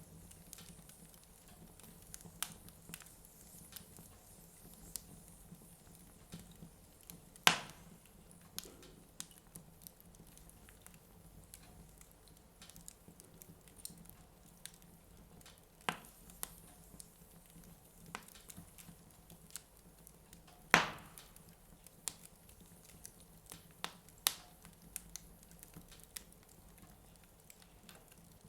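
Wood fire burning in a fireplace, crackling with scattered small clicks and two loud pops, one about a quarter of the way in and one about three quarters through.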